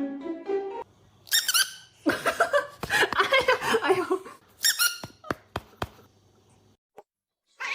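Music cuts off, then come several bursts of high, wavering squeaking over about four seconds, followed by a few sharp clicks.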